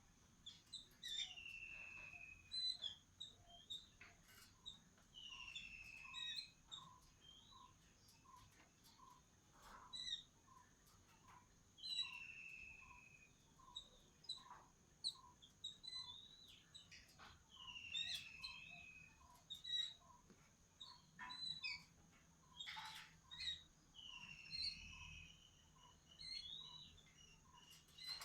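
Several birds calling faintly. One repeats a short descending call about every six seconds, over a steady string of short low notes and scattered high chirps.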